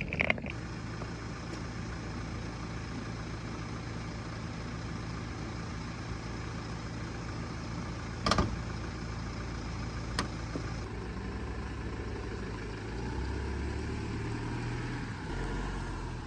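A motor vehicle's engine running steadily with a low hum. There are two sharp clicks about eight and ten seconds in, and the low rumble grows heavier from about thirteen seconds.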